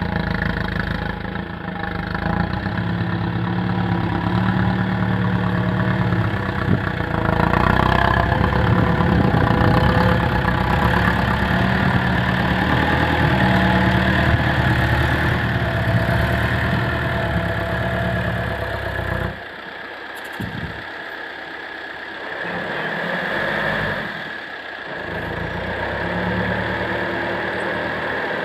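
Six-wheel dump truck's diesel engine running steadily, louder for much of the time, then dropping to a lower level about nineteen seconds in.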